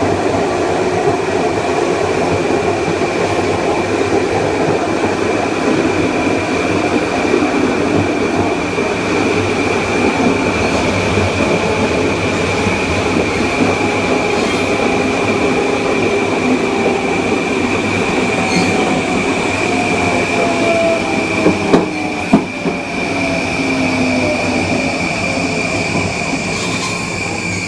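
Kawasaki M9 electric multiple unit running, heard on board: the Mitsubishi IGBT-VVVF inverter and AC traction motors give a steady high whine over wheel and rail noise. Lower motor tones slowly fall in pitch in the second half, and a couple of sharp knocks come from the wheels or track about three-quarters of the way through.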